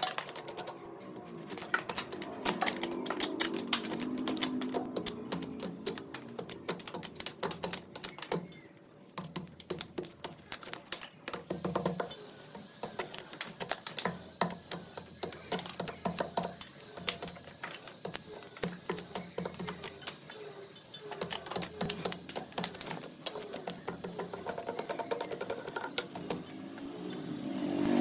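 Wood lathe running while a tool cuts the spinning wood: dense, rapid clicking and scraping over a low hum that shifts in pitch.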